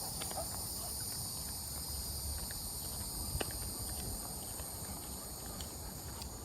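Steady high-pitched drone of an evening insect chorus, several even pitches held without a break, with a few faint ticks scattered through it.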